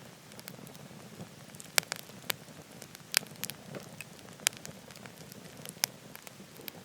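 Firewood burning in a wood stove, crackling with several sharp pops over a steady hiss; the loudest pops come about two and three seconds in.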